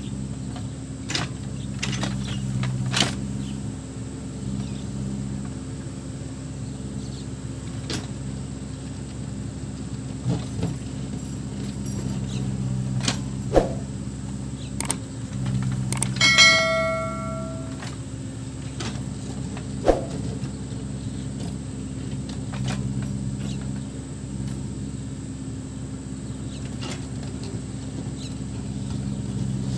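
Backhoe loader's diesel engine running under changing load, with scattered metallic clanks and knocks from the working machine. A brief high ringing tone sounds a little past halfway.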